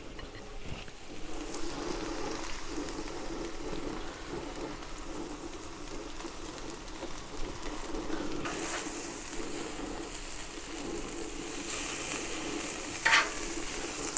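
Burger patties and rye bread sizzling steadily on the steel griddle plate of a two-burner gas plancha, with one short clink near the end.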